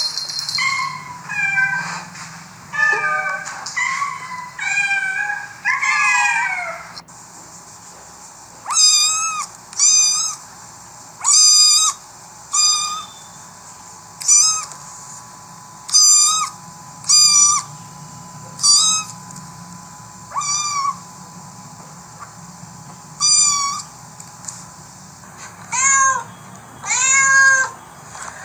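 Cats and kittens meowing: a quick run of short, high meows for the first several seconds, then single meows every second or two, with a few closer together near the end.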